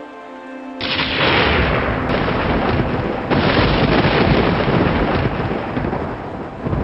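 Thunder: about a second in, a loud clap breaks in and rolls into a long rumble, which swells again about three seconds in and eases off near the end. Soft relaxing music with held notes plays underneath, heard plainly before the clap.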